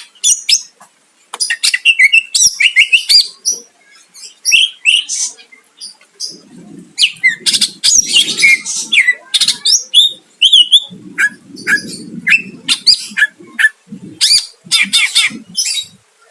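Green leafbird (cucak ijo) singing a fast, varied song of sharp chirps and whistled slurs broken by short pauses. A low rasping sound comes in twice under the song.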